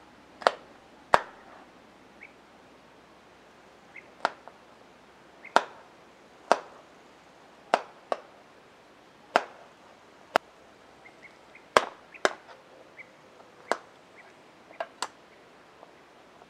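A series of sharp chopping knocks, about fourteen at uneven spacing of roughly one a second, some ringing briefly after the strike.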